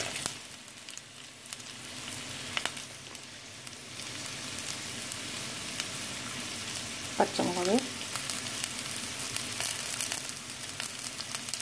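Chopped shallots frying in hot oil in a clay pot: a steady sizzle with scattered crackles and pops.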